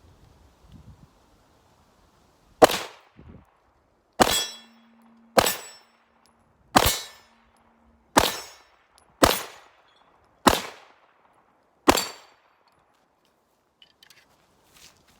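Kimber Rapide Black Ice 9mm pistol fired eight times at an unhurried, uneven pace, about one shot every one to one and a half seconds, with steel targets clanging as the bullets strike them.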